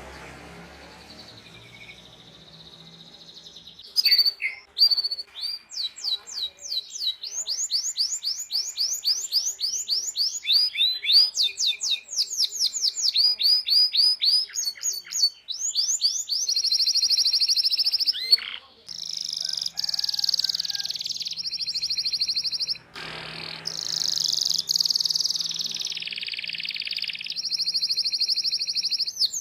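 Domestic canary singing a long, fast song: after a quiet first few seconds it breaks into rapid series of high chirps, then into long rolling trills held for a second or more at a time.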